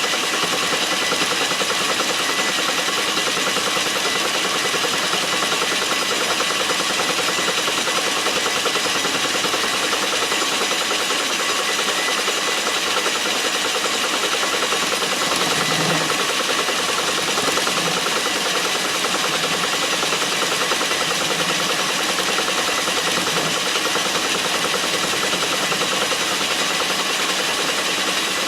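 Metal lathe running steadily, turning down a part held in its chuck: an even machine hum with several constant tones.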